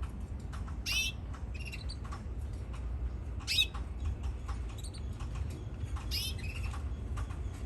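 Canary giving three short, high chirping calls about two and a half seconds apart, among light scattered clicks.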